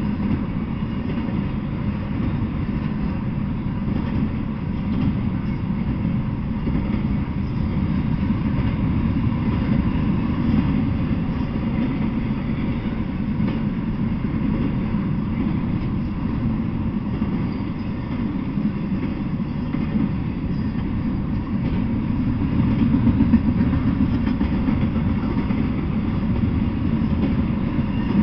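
Double-stack intermodal freight train rolling past, its container-laden well cars making a steady low rumble of wheels on rail.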